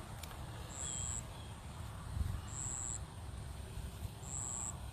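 An insect calling in short, high, even-pitched buzzes of about half a second each, repeating roughly every two seconds, over a steady low rumble.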